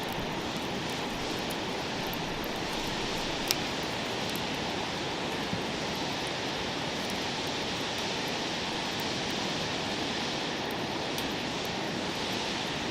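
Campfire burning: a steady hiss with scattered small crackles and one sharp pop about three and a half seconds in.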